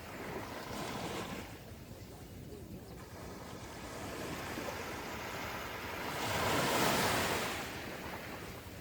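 Gentle ocean waves washing onto the shore, with one swell about a second in and a larger, louder wash from about six to seven and a half seconds. Some wind on the microphone.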